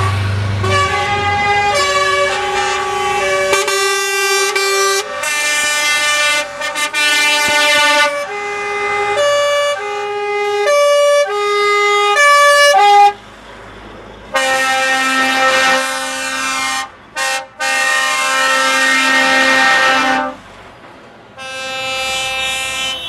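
Truck air horns sounding. A multi-note musical horn plays a tune of short stepped notes for about the first 13 seconds, then a long horn blast follows, broken twice in its middle, and another horn sounds near the end.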